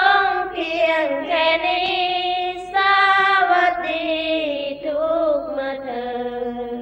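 Women's voices chanting sarabhanya, Thai Buddhist verse chant in an Isan melody, sung together on one line with no instruments, closing on a long held low note near the end.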